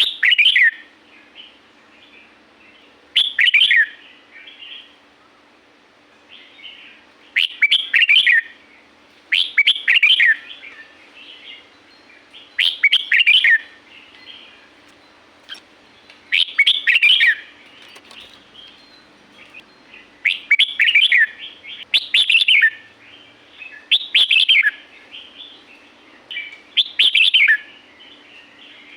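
Red-whiskered bulbul singing: about ten short, bright, warbling phrases that sweep downward, one every two to three seconds, with softer chirps in between.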